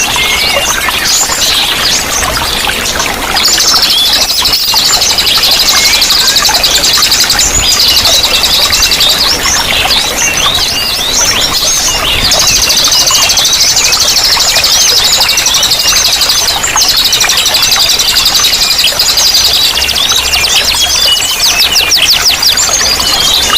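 Several small songbirds singing at once, a dense chorus of fast, high trills and chirps that barely lets up.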